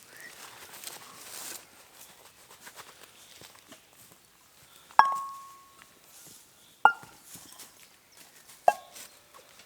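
Three sharp metallic strikes about two seconds apart, each ringing briefly; the first is the loudest and rings longest. Light rustling and footsteps come before them.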